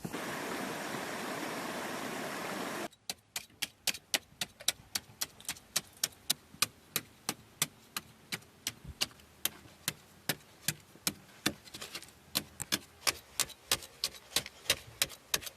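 A steady rushing noise for about three seconds that cuts off abruptly, followed by a long, even series of sharp knocks, about three a second.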